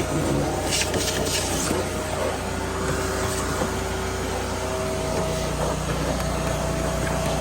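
A machine running steadily with a low hum, and a few short hisses about a second in.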